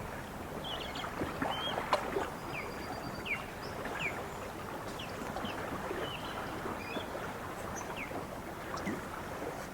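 Lake water lapping in a steady wash, with small birds giving short falling chirps, one or two a second. A single sharp tick about two seconds in.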